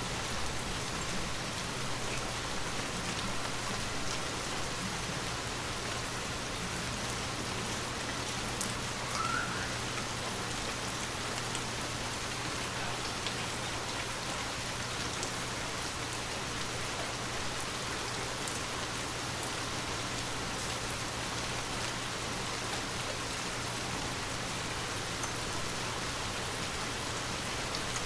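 Steady rain falling, an even hiss with scattered drop ticks on surfaces.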